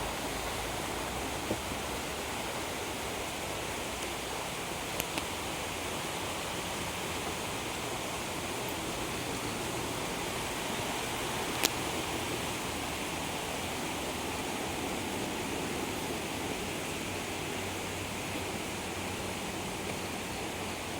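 Steady, even hiss with a few short sharp clicks, the loudest about halfway through.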